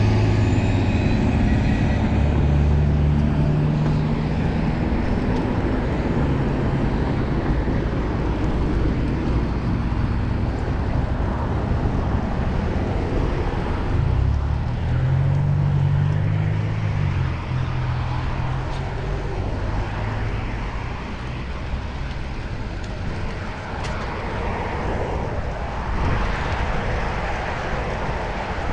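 Steady wind and road noise from riding a bicycle in city traffic, with passing motor vehicles whose engine hum is loudest near the start and again about halfway through.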